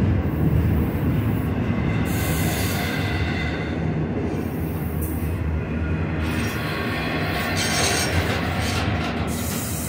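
Double-stack intermodal well cars rolling slowly past at close range: a steady rumble of steel wheels on rail, with high-pitched wheel squeal coming and going.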